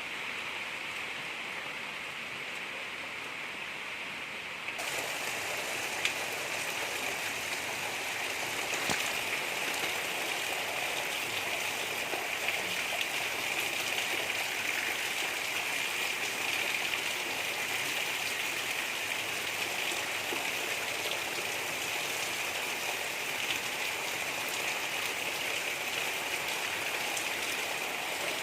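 Steady gentle rain: an even hiss with faint scattered drop ticks. About five seconds in, it suddenly turns brighter and a little louder.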